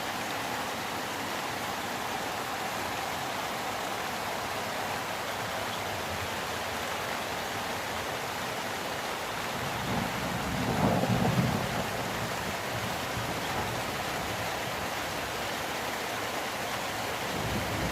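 Steady summer rain falling, with a low rumble of thunder swelling about ten seconds in and dying away, and another roll of thunder beginning near the end.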